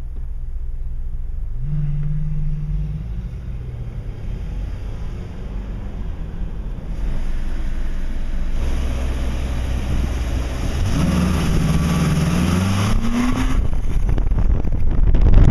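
Ferrari California V8 engine revving: a quick blip about two seconds in, then accelerating with a rising pitch from about ten seconds in before it drops off. A steady low engine and road rumble runs underneath.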